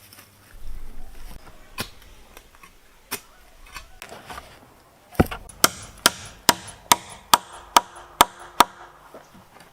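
Wood being struck by hand tools: a couple of scattered knocks, then a run of about nine sharp, evenly spaced blows, a little over two a second, in the second half.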